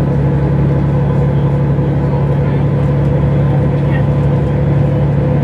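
Mercedes-Benz O405 N² city bus's horizontal six-cylinder diesel engine droning steadily at a constant speed while the bus is under way, heard from inside the rear of the bus.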